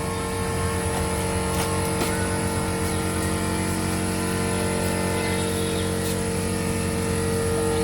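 A motor running steadily at constant speed, a droning hum with several fixed tones.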